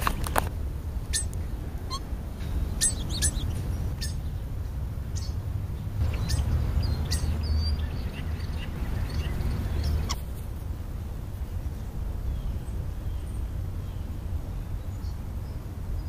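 Birds chirping in short, scattered calls, most of them in the first half, over a steady low rumble.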